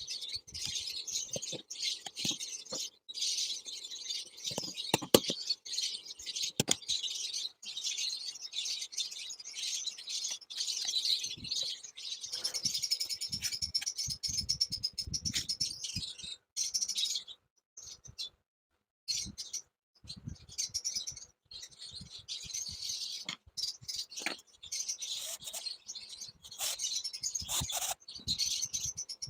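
Small pet birds chirping and chattering continuously in a high register, with a couple of short pauses past the middle and occasional soft knocks.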